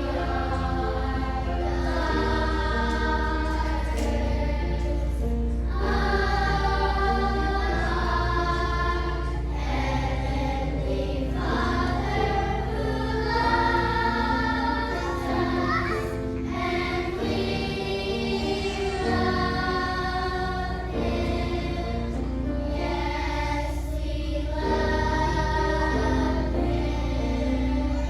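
Children's choir singing, in phrases a couple of seconds long, with a steady low hum underneath.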